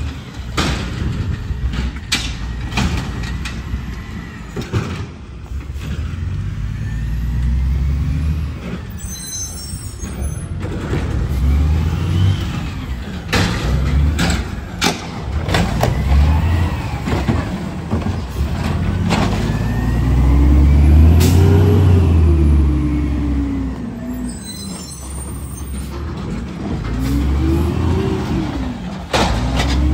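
Garbage truck engine revving up and falling back several times, with repeated clanks and knocks and two short hisses.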